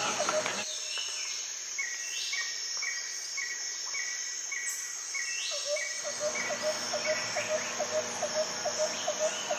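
Rainforest ambience: a steady insect drone with repeated short animal calls, a high call about twice a second in the first half, then quicker, lower chirps about three a second from about six seconds in.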